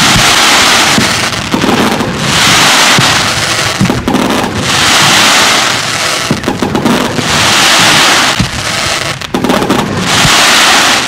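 Fireworks cake firing shot after shot, each bursting low overhead into a dense, rain-like crackle of glitter stars that lasts about a second and a half. Five crackles in all, about every two and a half seconds, with a launch thump in each gap.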